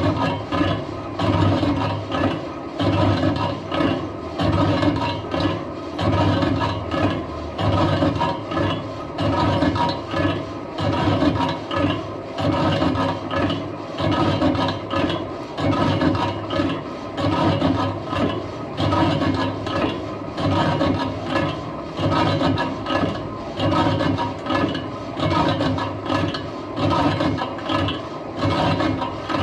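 Lathe turning a truck wheel rim, the cutting tool scraping and rasping on the metal with a steady pulse about once a second.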